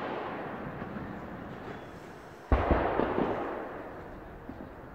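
Aerial firework shells bursting in a large fireworks display: the fading rumble of one bang at the start, then a single heavy bang about halfway through, followed by a few smaller cracks and a long echoing rumble that dies away.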